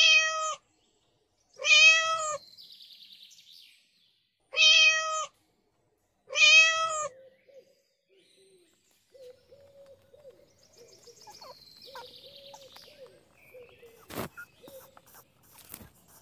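A cat meowing four times, loud calls about two seconds apart, each rising and then falling in pitch. After the calls there are only faint sounds and a few clicks.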